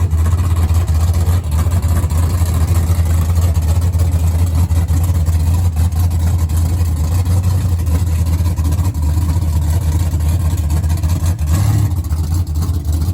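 A car engine idling, a steady low drone.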